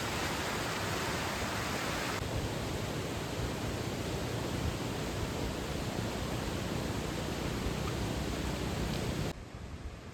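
Steady rushing of a mountain stream, an even hiss of flowing water that changes abruptly about two seconds in and drops sharply in level near the end, as shot changes.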